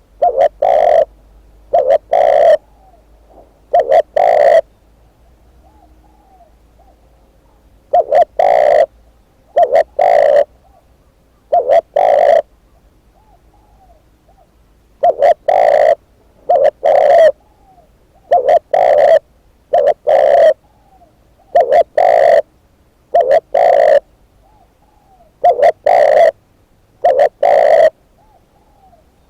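Spotted dove cooing over and over, in short phrases of two or three loud coos separated by pauses of a second to a few seconds.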